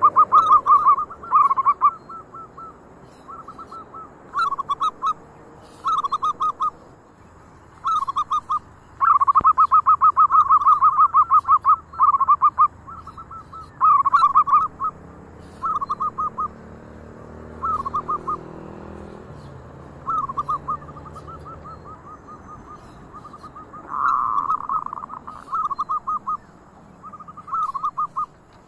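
Zebra doves (perkutut) cooing: bursts of rapid, rolling, pulsed coos repeated every second or two, with a longer unbroken run about nine seconds in. Phrases overlap, as several birds answer one another.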